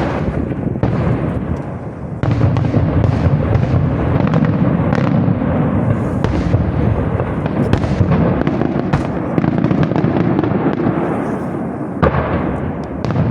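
Aerial fireworks display in a dense barrage: a continuous rumble of overlapping bangs with many sharp cracks, getting louder about two seconds in.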